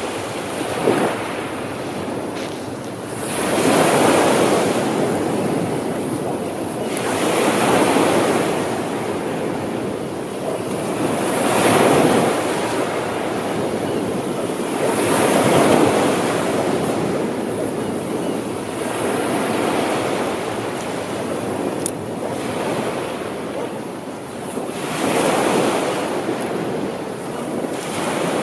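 Ocean waves breaking and washing on a shore, swelling up about every four seconds over a continuous hiss of surf.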